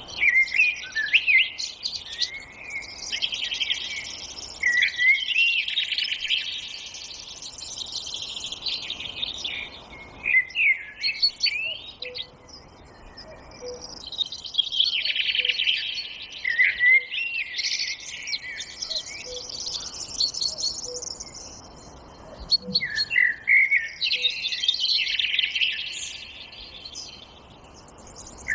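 Songbirds singing in a forest: repeated bouts of rapid, high twittering song a few seconds long, separated by short pauses.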